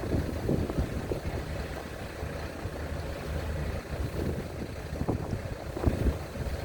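Low, steady rumble of a ferry's engines as the ship is manoeuvred to its berth, with strong wind buffeting the microphone in irregular gusts.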